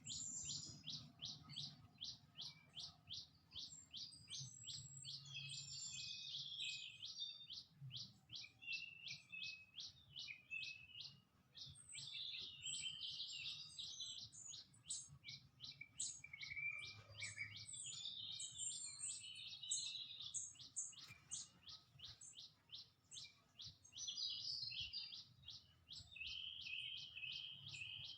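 Songbirds calling near a feeder: one bird repeats a short high chip about three to four times a second without pause, while other birds twitter and chatter over it.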